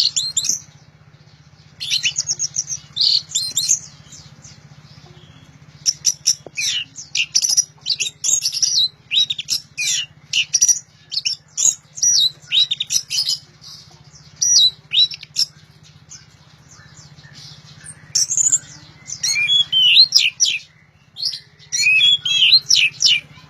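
Orange-headed thrush singing loudly in bursts of rapid, varied high-pitched phrases, with gaps of a second or two between bursts. A steady low hum runs underneath.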